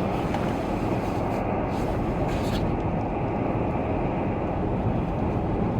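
Steady low rumble of a car driving along a snowy highway, heard from inside the cabin: road, tyre and engine noise, with a few faint ticks.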